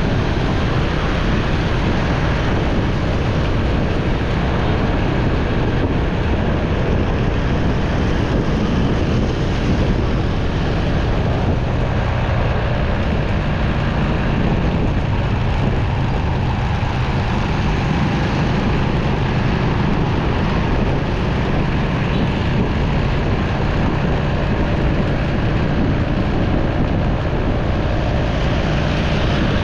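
Steady wind noise buffeting the microphone of a moving motorcycle, with the bike's engine running underneath.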